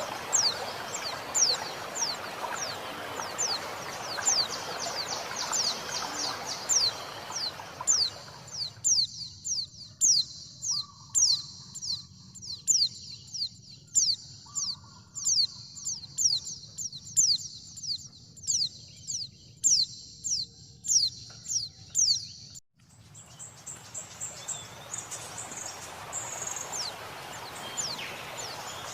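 Female white-eye (pleci) calling with a steady series of short, high, falling notes, about two a second, over flowing water. The water drops out about eight seconds in, leaving the calls over a thin hiss. It returns suddenly after an abrupt cut near the end.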